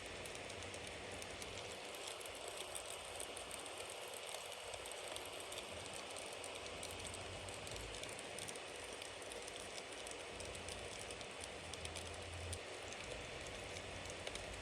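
Bonfire burning: a steady hiss with many small, quick crackles and pops from the burning wood.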